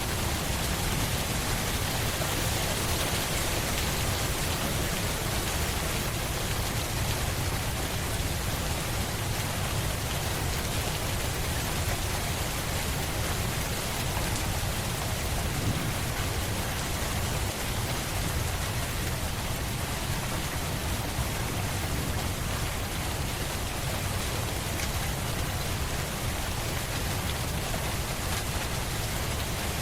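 Steady, even rain falling, a constant hiss with a low rumble beneath it.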